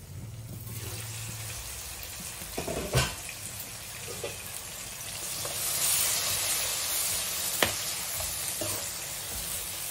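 Sliced onions, tomato and green chillies sizzling in hot oil in a nonstick wok while a steel spoon stirs them. The sizzle grows louder about six seconds in, and the spoon knocks sharply against the pan twice.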